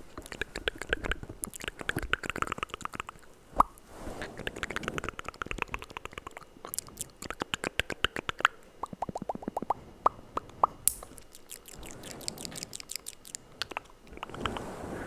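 Close-up ASMR mouth sounds: wet tongue and lip clicks and pops in quick runs with short pauses, and one sharp pop about three and a half seconds in.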